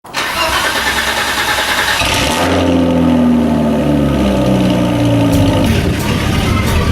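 Car engine revving: a dense, loud rush for about two seconds, then the pitch falls away and the engine runs on at lower revs.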